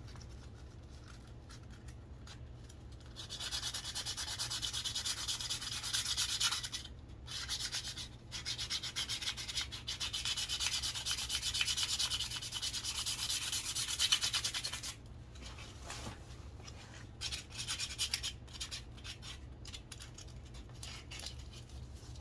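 Sandpaper rubbed by hand along a wooden walking stick. It is quiet for about three seconds, then about twelve seconds of fast back-and-forth sanding strokes with two short breaks follow. The sanding then trails off into lighter, scattered strokes.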